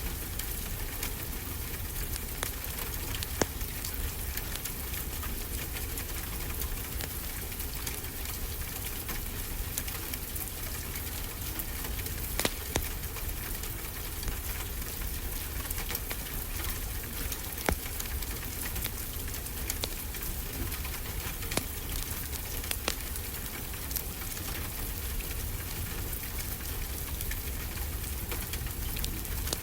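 Wood fire crackling, with scattered sharp pops over a steady hiss, mixed with the steady low rumble of ocean waves.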